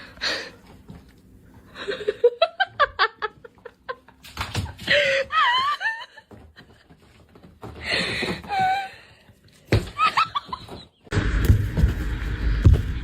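A person laughing in rapid bursts of short, rising notes, with squealing, wavering cries between, and a louder scuffling noise near the end.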